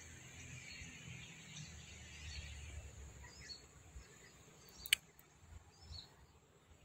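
Faint outdoor field ambience: a steady high insect buzz with a few short bird chirps, and a single sharp click about five seconds in.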